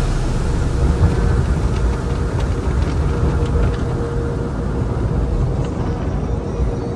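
Automated tunnel car wash heard from inside the car: a steady rumble of wash equipment working over the car, with a faint steady hum and a few light ticks.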